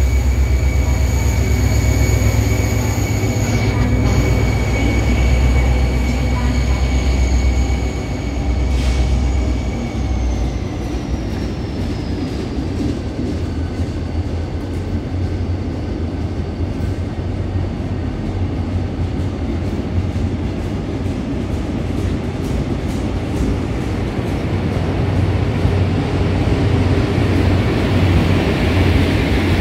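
Passenger train moving along a station platform: a loud low engine drone with a steady high whine that slides down in pitch about ten seconds in.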